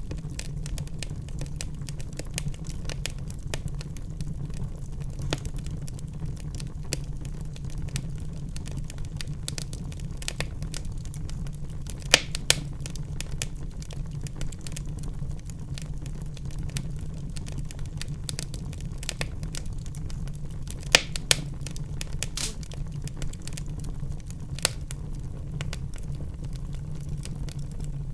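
Wood fire burning in a fireplace: a steady low rumble of the flames with frequent sharp crackles and pops, a few louder snaps about 12 and 21 seconds in.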